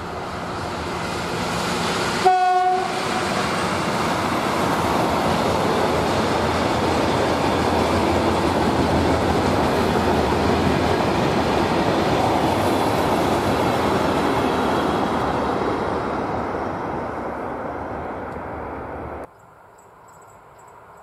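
SM42 diesel shunting locomotive gives a short horn blast, the Rp1 warning signal, about two seconds in. Then its long train of tank wagons rolls past with a steady rumble and wheel noise that swells and slowly fades, until the sound cuts to a faint quiet background near the end.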